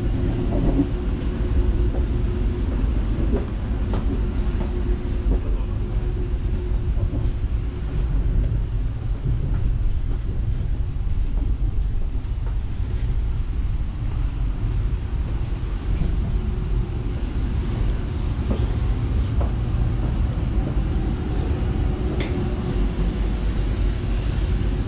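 Steady low rumble of a Hitachi Caravaggio double-deck electric multiple unit running along the line, heard inside the passenger saloon, with a faint steady hum and a few light rattles.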